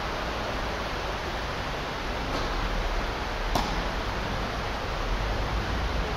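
Heavy rain falling steadily on the indoor tennis hall's roof, a constant hiss. Tennis balls are struck by rackets twice: a faint hit about two and a half seconds in and a louder forehand about three and a half seconds in.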